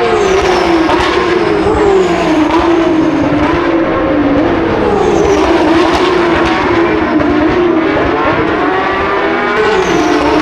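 Several Porsche 911 GT3 Cup race cars' flat-six engines going by on track at full volume, their notes rising and falling as they accelerate and shift down, overlapping without a break.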